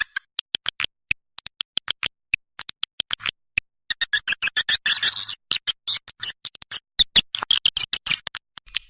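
Recorded swiftlet lure call: rapid, sharp chirps and clicks, spaced out at first, then thickening about four seconds in into a dense twittering that runs until shortly before the end.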